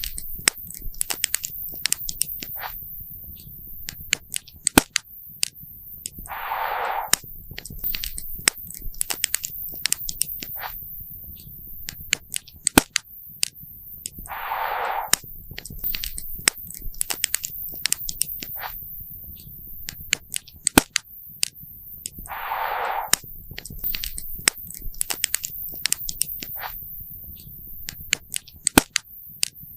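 Wood campfire crackling and popping, a dense run of sharp pops and snaps of varying loudness over a soft low rumble. A short hiss of about a second comes back about every eight seconds, three times.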